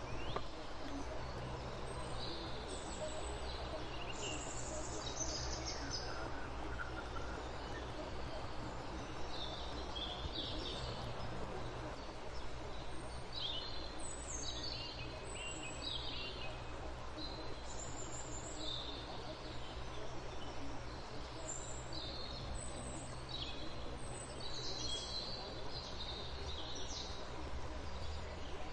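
Birds chirping over a steady low hum: many short, high calls that sweep downward, scattered irregularly throughout.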